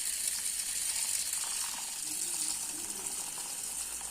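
Handheld electric coffee beater whisking coffee into froth: a steady, high, hissing whir.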